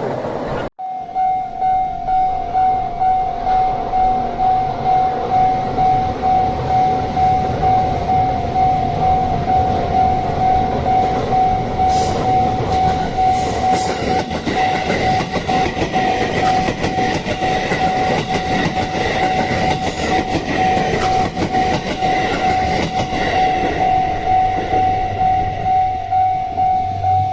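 Level crossing warning bell ringing in steady repeated pulses while a JR 281 series Haruka limited express electric train runs past, its wheels clattering on the rails.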